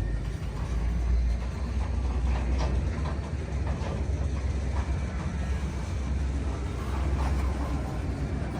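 Freight train rolling past: a steady low rumble with scattered clicks and clacks of wheels over the rails.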